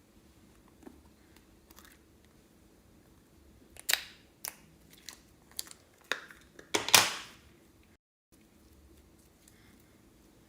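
A run of sharp crackles and snaps at close range, about eight of them from about four to seven seconds in, the last the loudest and longest.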